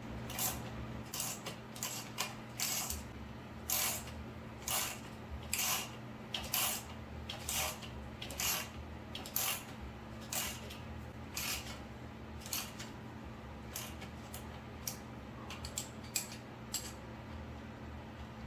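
Ratchet wrench worked in repeated strokes, a sharp click about once a second, quicker and lighter toward the end, as a bolt is driven home under hard effort.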